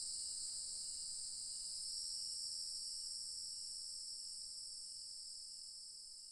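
Dusk chorus of crickets and other insects trilling steadily at a high pitch, with a fainter call pulsing about once every two-thirds of a second underneath; the whole chorus fades gradually away.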